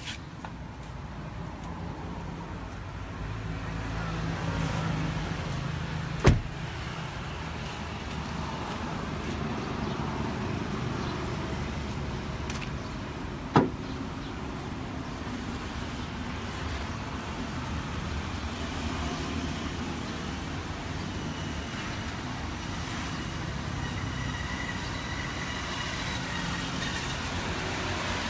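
Lexus engine idling with a steady low hum. Two sharp knocks stand out, one about six seconds in and another about seven seconds later.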